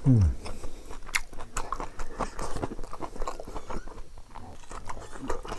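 Close-miked chewing of a raw bitter eggplant, with crunching and wet mouth clicks throughout. A short low thump falling in pitch opens it and is the loudest sound.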